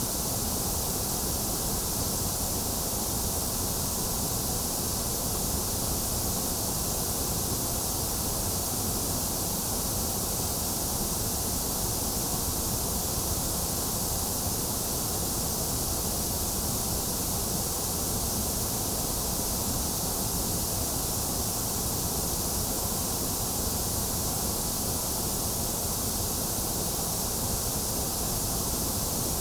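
Steady, unchanging white noise hiss from a sleep-sound track, bright on top with the middle range scooped out.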